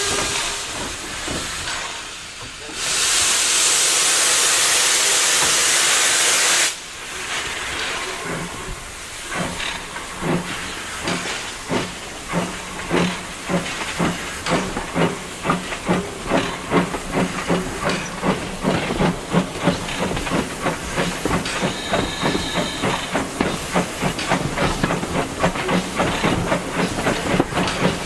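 Steam locomotive, an LB&SCR A1 'Terrier' tank engine, pulling away. First comes a loud hiss of steam for about four seconds. Then its exhaust beats start slowly and get quicker as the train gathers speed.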